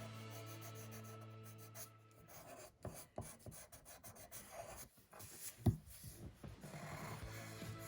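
A drawing tool scratching and rubbing on paper in irregular, faint strokes while a hummingbird wing outline is sketched, with one sharp tap about two-thirds of the way through.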